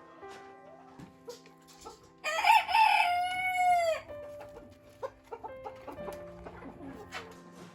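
A rooster crows once, about two seconds in, a loud call of nearly two seconds that holds and then falls in pitch at the end. Hens cluck softly around it.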